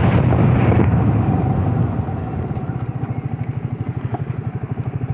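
Motorcycle engine running while riding; about two seconds in it drops to a quieter, evenly pulsing beat.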